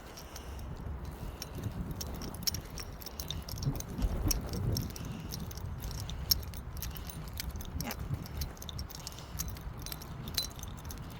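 A bunch of keys jangling in short, irregular jingles over a low rumble.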